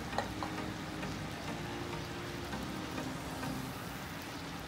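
Thick curry gravy sizzling gently in an aluminium kadai on a low flame, a steady soft hiss with a faint click about a fifth of a second in.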